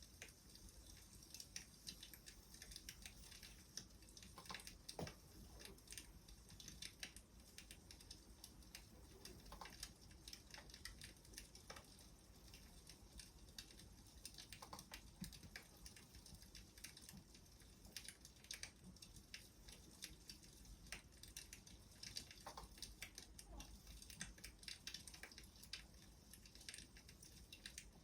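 Faint crackling wood fire: a steady patter of small irregular crackles, with an occasional louder pop every few seconds.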